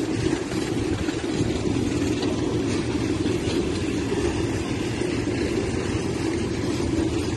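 Loaded aggregate freight wagons rolling past on steel rails: a steady low rumble of wheels on track.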